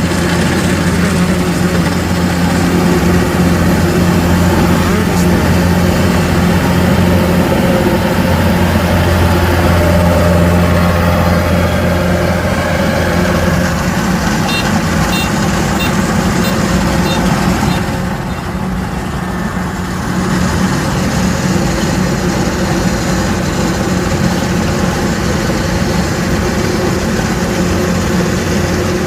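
A small engine running steadily under load, easing off briefly about eighteen seconds in before picking up again.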